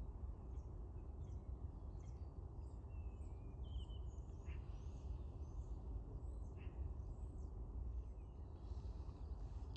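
Steady low outdoor rumble with faint chirps and short calls of small birds scattered through it, including a couple of brief downslurred calls about a third of the way in.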